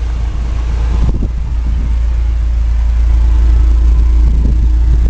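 Hummer H3's 3.5-litre inline-five engine idling steadily through a Borla dual exhaust, with a deep rumble that grows louder over the first few seconds, then holds.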